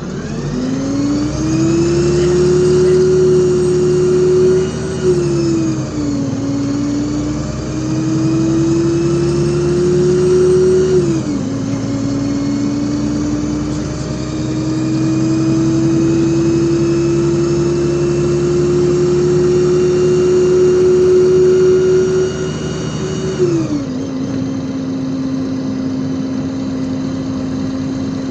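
LiAZ 5292.65 city bus accelerating, heard from inside the cabin. The whine of the engine and drivetrain climbs in pitch, then drops sharply about five, eleven and twenty-three seconds in as the gearbox shifts up, and after that holds steady at cruising speed.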